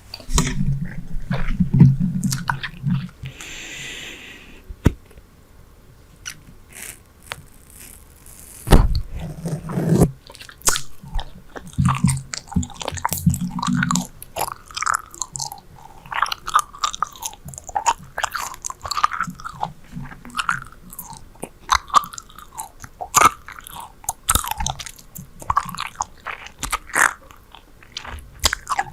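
Super Bubble bubble gum chewed close to the microphone: a continuous, irregular run of wet smacks and sticky clicks. There are deeper muffled thuds near the start and again around ten seconds in.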